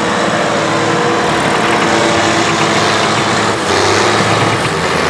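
Tractor engine running steadily under load, with a brief dip in level about three and a half seconds in.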